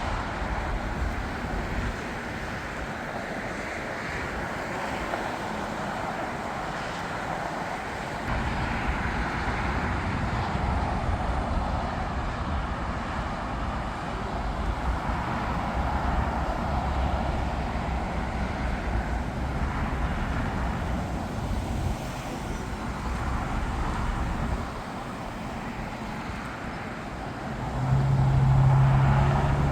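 Steady roar of road traffic mixed with jet aircraft noise. A low, steady hum swells near the end and is the loudest part.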